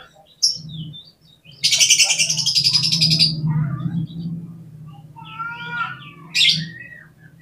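Oriental magpie-robin (kacer) singing: a loud, harsh rattling phrase about two seconds in that lasts around two seconds, followed by shorter whistled notes, trills and a sharp call near the end. A steady low hum runs underneath.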